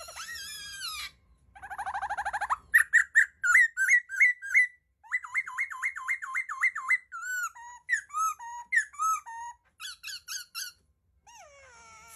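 Laughingthrush singing a varied song: a fast trill, then a string of repeated whistled notes, a quick rolling series of notes and several downward-slurred whistles. The phrases change every second or two, with a short pause near the end.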